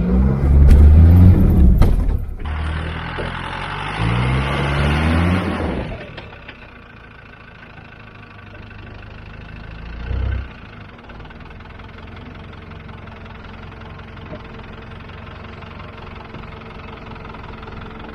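Off-road 4WD engine revving hard under load as the vehicle climbs, its pitch rising in several sweeps over the first six seconds. After that the engine runs low and steady, heard from further off, as the vehicle crawls over rock, with one heavy thump about ten seconds in.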